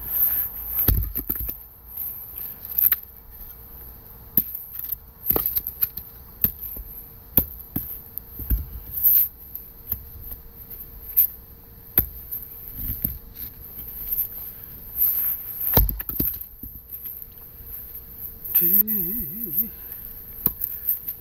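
Axe blows splitting round firewood logs: a string of sharp chops and knocks at irregular spacing, a few of them much louder than the rest.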